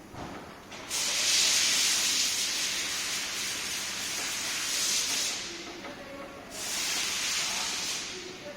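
Compressed air hissing from an air tool in two long bursts, the first about four seconds long, the second shorter.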